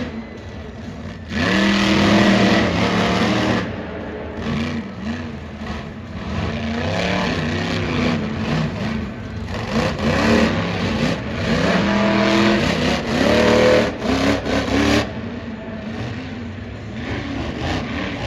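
Supercharged, alcohol-fuelled monster truck engine revving hard, its pitch rising and falling again and again as the driver works the throttle. It is loudest about two seconds in and again past the middle.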